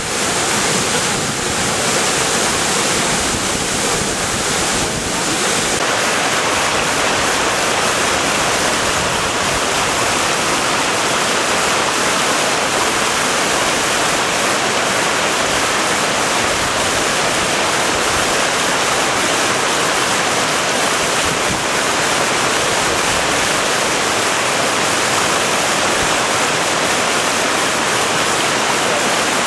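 A waterfall's water rushing loudly and steadily, a continuous hiss with no breaks.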